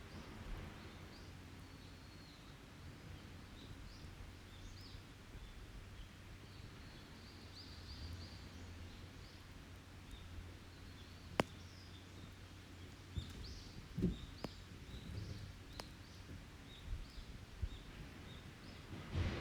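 An open wood fire crackling, with a few sharp pops, the strongest a little past halfway. Small forest birds chirp and call throughout.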